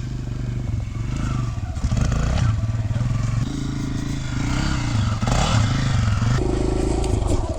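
Single-cylinder four-stroke dirt bike engine running and revving up and down unevenly, cutting out right at the end.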